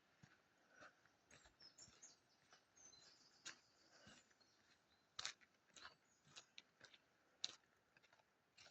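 Near silence with faint birds chirping, and a few soft, short clicks scattered through it.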